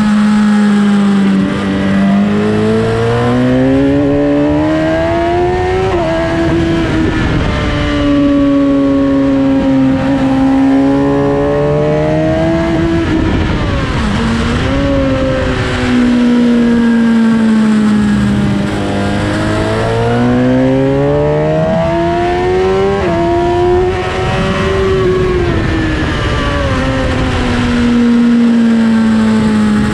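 Suzuki GSX-R1000 K8's inline-four engine at race pace, revs climbing hard under acceleration with sharp drops at upshifts, then falling away as the bike slows for corners, over rushing wind.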